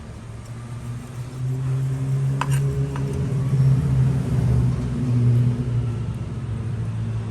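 A motor vehicle engine running, growing louder about a second in and easing off near the end, like a vehicle passing close by. A couple of short clicks come around the middle.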